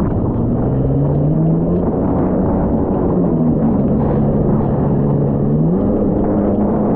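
Jet ski engine running hard and steady, its note sliding in pitch and climbing about six seconds in.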